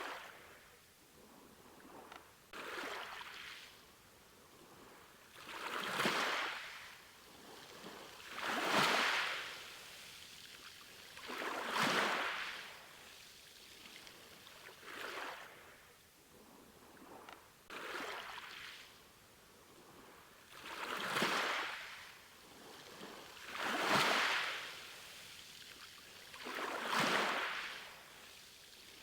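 Sea waves washing in on a shore, one wave about every three seconds: each a swell of hiss that rises and dies away.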